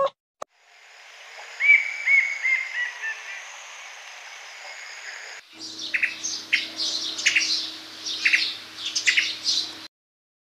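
Small birds chirping in two separate recordings. First comes a run of quick descending chirps over a faint steady high hiss. After a sudden cut about five seconds in, sharper, scattered chirps play over a steady low hum, and the sound stops abruptly near the end.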